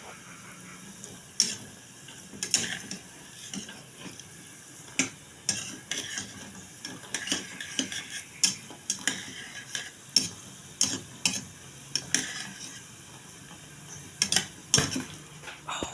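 Irregular sharp clicks and clatter, about one or two a second, over a light scraping hiss, like food being picked from a dish.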